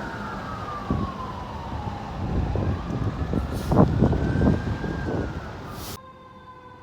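Fire truck siren wailing, sliding down in pitch and then back up, over the heavy rumble of the truck going past. Near the end it cuts off suddenly and a faint steady tone is left.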